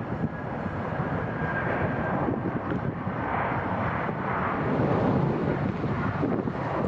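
Jet airliner's engines passing, a loud even rush with a faint high whine, swelling gradually about two-thirds of the way in.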